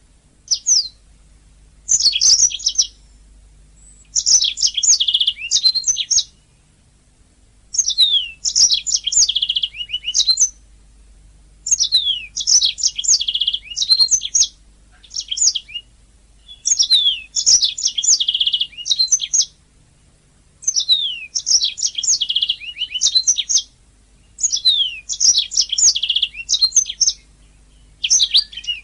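Domestic canary singing in repeated phrases of rapid trills and quick falling notes. The phrases come every three to four seconds with short pauses between them, over a faint low hum.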